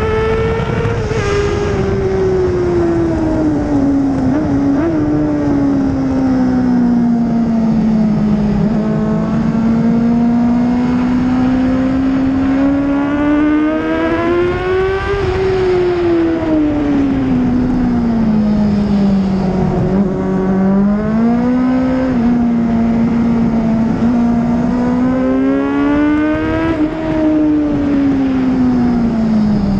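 2004 Honda CBR600RR's 599 cc inline-four engine heard from on board at track speed, its pitch rising and falling with throttle through the corners. There are several long rises and falls and a quick step up in pitch about two-thirds of the way through, under steady wind rush.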